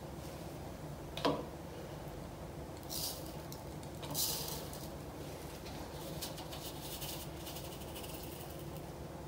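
Glass spice jars being handled on a counter: a light knock about a second in, then two soft scraping, rustling sounds, over a faint steady hum.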